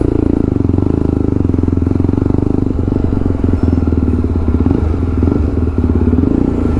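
Jawa 42 motorcycle's single-cylinder engine idling through an aftermarket exhaust: a loud, steady run of rapid, even firing pulses.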